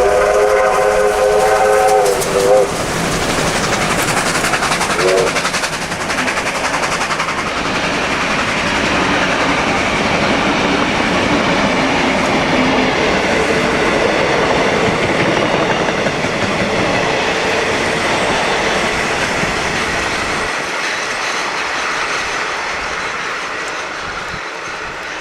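Steam locomotive whistle sounding a chord for about two and a half seconds, with a short second toot a few seconds later. Then the steady running noise of the steam train on the track, wheels clacking over rail joints, easing off near the end.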